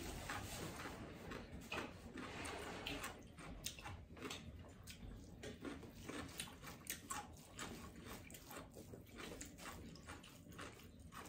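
A person chewing and eating with the fingers, close to the microphone: faint wet smacks and many irregular short mouth clicks.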